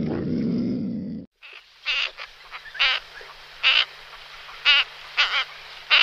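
A low animal growl that cuts off about a second in, then a run of about seven short, high-pitched animal calls, some with a quavering trill.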